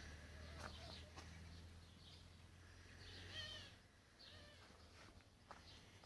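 Faint outdoor birdsong: scattered chirps, with a clearer warbling call a little after three seconds, over a low buzz that fades out about four seconds in.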